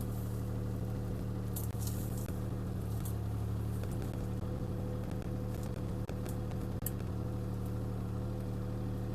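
CAT 303C CR mini excavator's diesel engine running steadily, with a few short sharp cracks and snaps scattered through.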